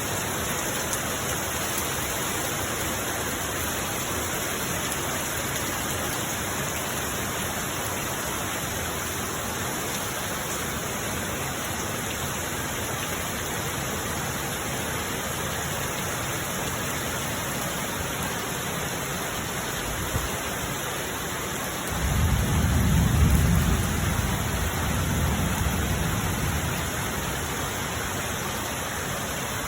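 Heavy rain pouring steadily. About twenty-two seconds in, a low rumble of thunder swells for a few seconds and then fades back under the rain.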